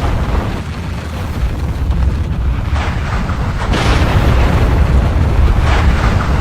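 Volcanic eruption: a continuous deep rumble with repeated hissing, crackling surges laid over it, growing louder a little over halfway through.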